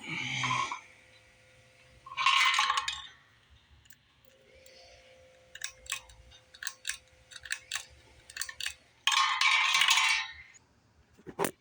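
Handling noises: two loud scraping or rustling bursts and a run of light clicks and clinks, ending in one sharp click.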